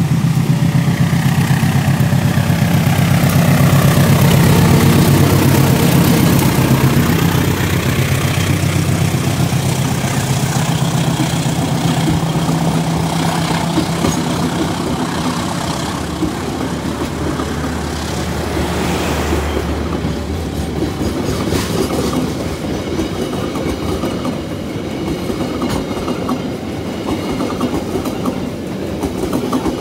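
A diesel locomotive hauling a twelve-car passenger train passes close by. Its engine drone is loud at first and fades after about 15 to 19 seconds. The carriages' wheels then carry on clattering over the rail joints in a steady clickety-clack.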